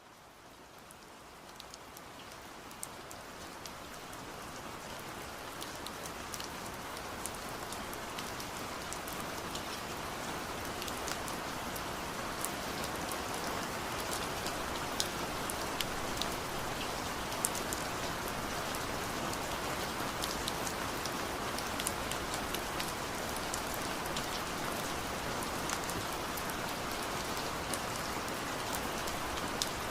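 Steady rain falling on a surface, with scattered sharp drop ticks; it fades in gradually over the first several seconds and then holds steady.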